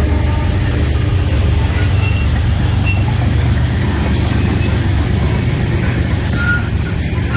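Loaded coal hopper cars of a CSX freight train rolling past close by: a loud, steady low rumble of steel wheels on the rails.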